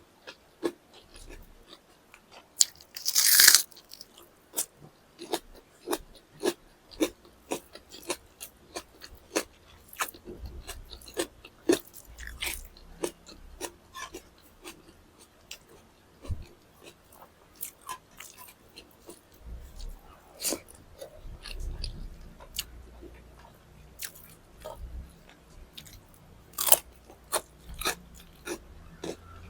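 A person chewing and biting food, with many small sharp mouth clicks and crunches, and one louder, longer crunch about three seconds in.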